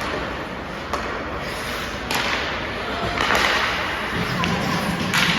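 Ice hockey game in an arena: a steady crowd murmur broken by sharp cracks and thuds of play on the ice, about a second in, two seconds in and near the end.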